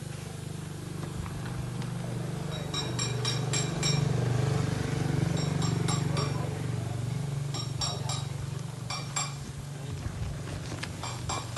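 Metal tools and engine parts clinking and tapping against each other in several short clusters of ringing clinks, over a steady low hum.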